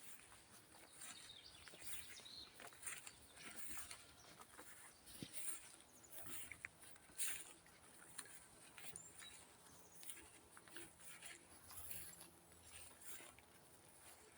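Faint footsteps on the forest floor, scattered soft crackles and rustles, with a sharper snap about seven seconds in, over quiet woodland ambience.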